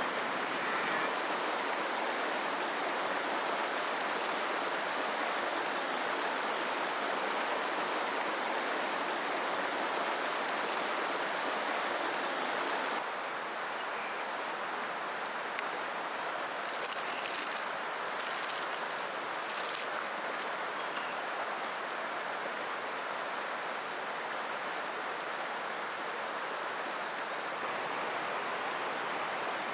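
Flowing river water, a steady rushing. About halfway through it steps down a little in level, and a few faint ticks sound over it.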